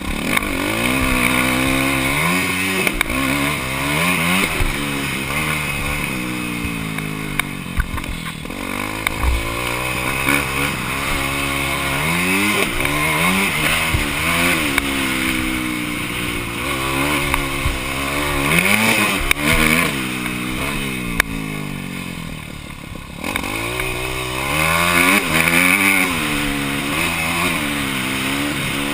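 Motocross bike engine heard on board, revving up and falling back again and again as the throttle is worked through the gears, with occasional knocks. The engine drops off briefly about eight seconds in, and again around twenty-two seconds in.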